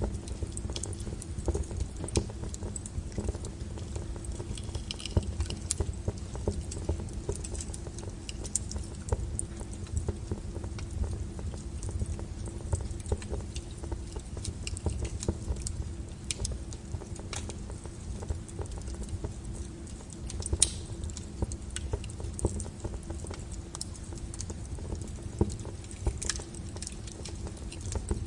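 Wood fire burning: a steady low rumble of flames with frequent sharp crackles and pops from the burning wood, one louder pop about twenty seconds in.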